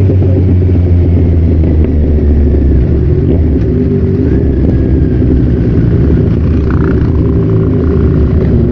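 Kawasaki Z1000's inline-four engine running steadily while the motorcycle is ridden along the road.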